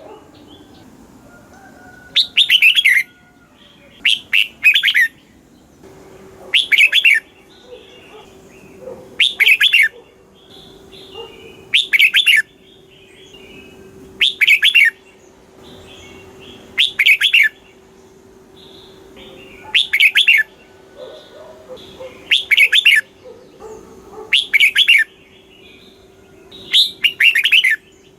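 Red-whiskered bulbul singing: short, loud warbled phrases about a second long, repeated roughly every two and a half seconds, with softer chatter in between.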